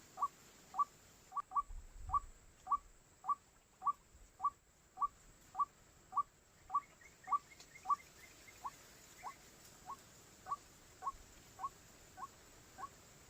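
White-breasted waterhen (ruak-ruak) calling: short notes, each sliding slightly down in pitch, repeated steadily a little under twice a second. Fainter, higher notes join briefly in the middle.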